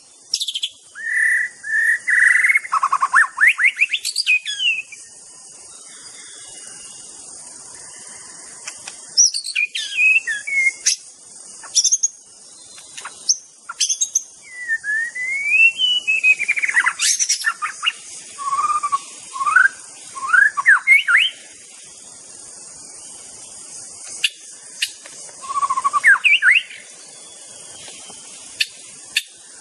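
White-rumped shama (murai batu) singing: bursts of varied whistled phrases with quick rising and falling sweeps, separated by pauses of a few seconds, over a steady high hiss.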